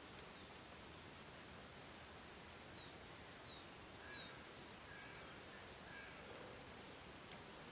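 Faint outdoor ambience with a steady hiss and small birds calling: short, high, falling chirps about once a second, with a few lower whistled notes around the middle.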